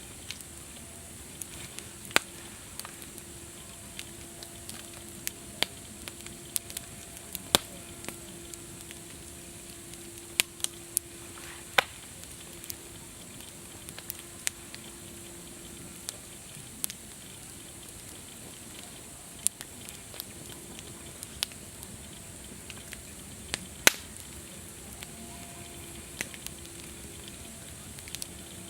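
Wood campfire crackling: irregular sharp pops and snaps, a few of them louder, over a steady hiss.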